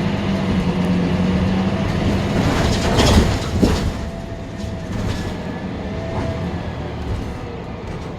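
Scania K310UB city bus heard from on board, running with a steady low engine hum for the first couple of seconds, then a loud rattling clatter of the body about three seconds in, after which it runs on more quietly.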